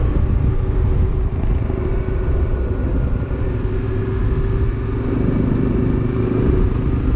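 Motorcycle engine running at a steady cruising speed, under heavy low wind rumble.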